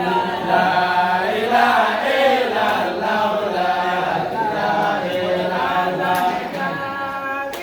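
Voices chanting Islamic praise together in a melodic line of long held and sliding notes.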